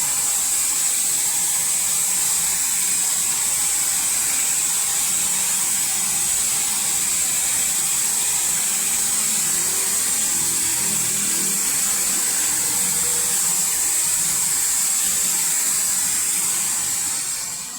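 Robotic car wash machine running with a steady, high-pitched hiss, fading away near the end.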